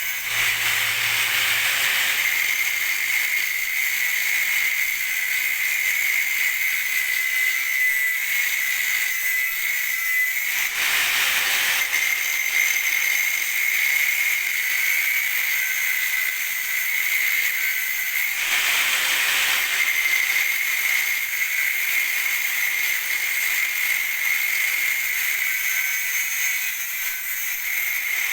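Angle grinder grinding a car's exhaust pipe: a steady high whine over a harsh hiss. Three times the whine dips and the hiss swells as the disc bites harder into the metal.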